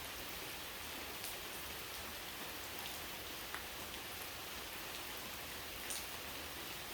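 Steady rain falling, an even hiss with a few sharper individual drops ticking about a second, three seconds and six seconds in.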